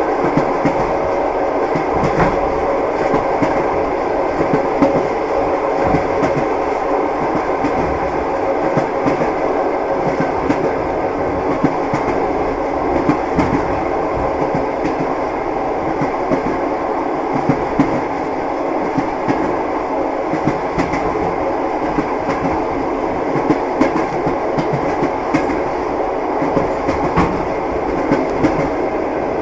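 Passenger train heard from inside the carriage: steady rumble of the moving coach, with the clickety-clack of the wheels knocking over rail joints at irregular intervals.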